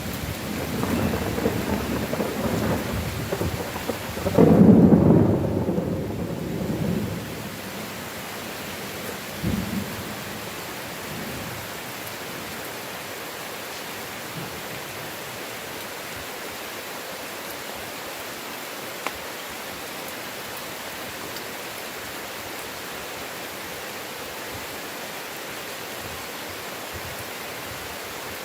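Heavy rain falling steadily while thunder rumbles through the first several seconds, with the loudest peal about five seconds in and a short, fainter rumble near ten seconds. After that, only the even hiss of the rain.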